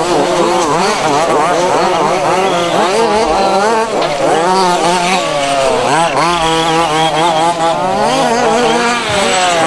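Several 1:5-scale RC off-road buggies' small two-stroke petrol engines racing together, each revving up and easing off so that their overlapping pitches keep rising and falling.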